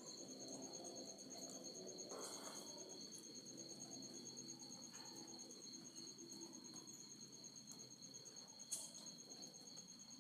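Faint, steady insect trilling: a high, fast-pulsing note that keeps going without a break, with a short rustle-like noise near the end.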